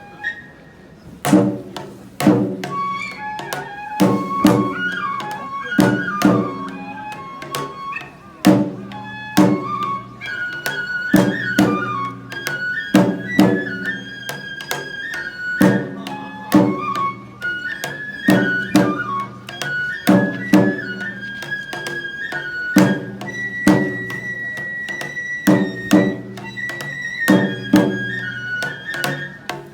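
Shinto kagura music: a Japanese bamboo flute plays a wavering melody over taiko drum strikes that come about once or twice a second.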